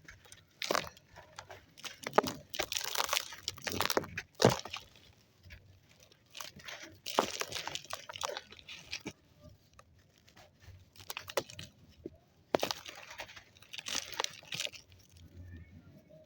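Dry white sand crumbling: a run of crunchy, gritty bursts with short pauses between them, a few sharper cracks standing out, such as about two seconds in, at about four and a half seconds, and near twelve and a half seconds.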